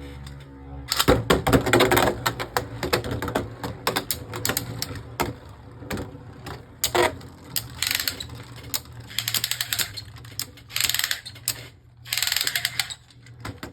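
Two Beyblade Burst spinning tops clashing in a plastic stadium: a rapid, uneven clatter of clicks and clacks, getting loud about a second in, with repeated louder bursts of collision as the tops hit each other and the stadium wall.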